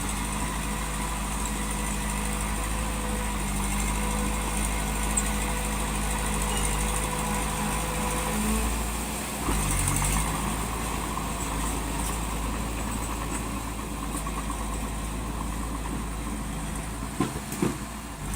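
Diesel engine of heavy construction machinery running steadily, its pitch shifting briefly about halfway through, with a few sharp knocks near the end.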